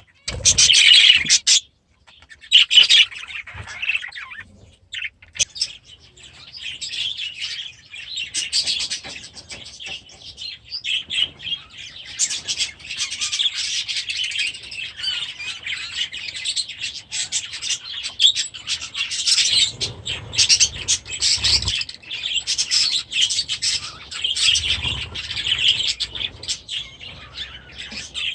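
A flock of budgerigars chattering and warbling continuously, a busy mix of chirps and twitters.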